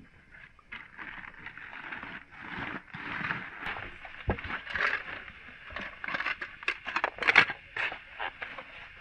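Irregular rustling and scraping with many sharp clicks, busiest and loudest in the second half.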